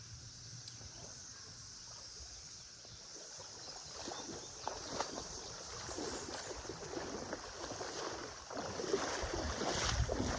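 River water sloshing and splashing, irregular and growing louder from about four seconds in, over a steady high-pitched drone of a cicada chorus.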